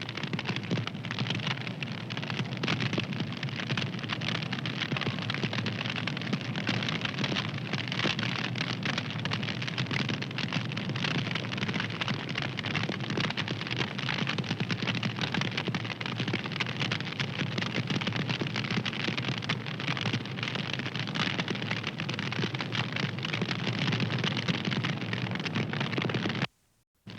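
Wood fire crackling steadily, a dense run of small pops and snaps over a soft hiss. It cuts out to silence for about half a second near the end, then resumes.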